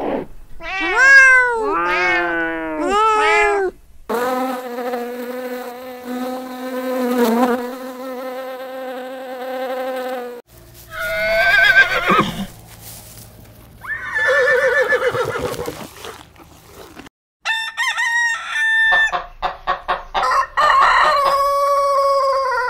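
A run of separate domestic animal calls. Kittens meow in the first few seconds, then comes one long steady call. Near the end, chickens cluck and a rooster crows.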